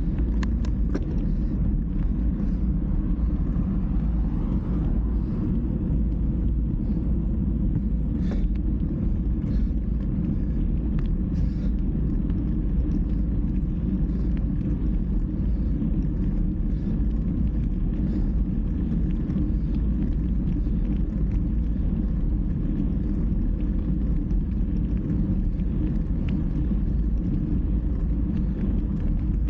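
Steady low rumble of wind and road noise during a ride, unbroken throughout, with scattered faint clicks and ticks.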